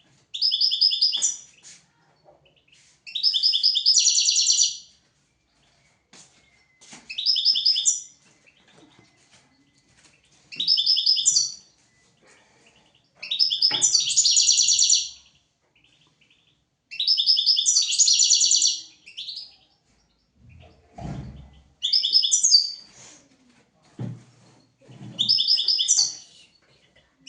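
European goldfinch singing: short bursts of bright twittering song, repeated about every three to four seconds with brief pauses between. A low dull thump comes about three-quarters of the way through.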